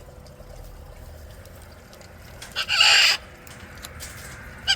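A parrot gives one loud, harsh squawk about three seconds in, and a brief sharp call near the end.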